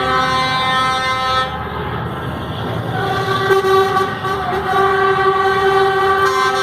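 Truck horns sounding in long held blasts, with a new, stronger horn tone taking over about halfway through.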